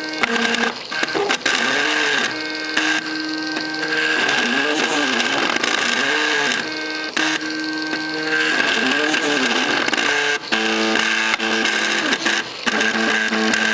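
MakerBot 3D printer's stepper motors running while printing: steady pitched whines, broken by repeated rising-and-falling tones as the print head speeds up and slows down, with the pitch set shifting to a lower chord-like group near the end.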